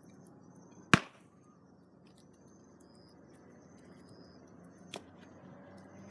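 Campfire wood popping: one sharp, loud crack about a second in and a smaller one about five seconds in, over a low steady background.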